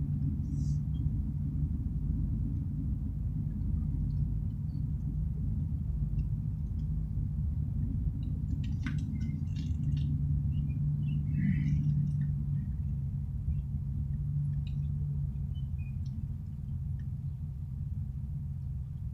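Steady low rumble of a truck engine running, with a few faint clicks and rattles about halfway through.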